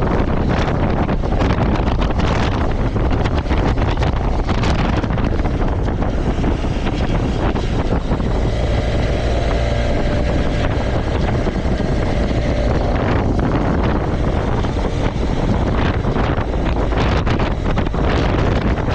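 Strong wind buffeting the microphone: a loud, steady low rumble with no pauses.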